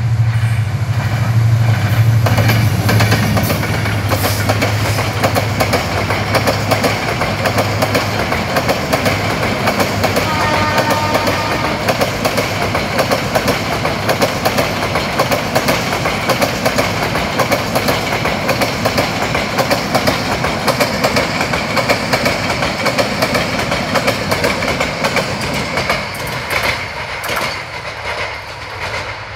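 Bangladesh Railway diesel locomotive running past with a low engine hum, followed by its passenger coaches clattering over the rail joints in a steady fast rhythm. The clatter thins out near the end as the train draws away.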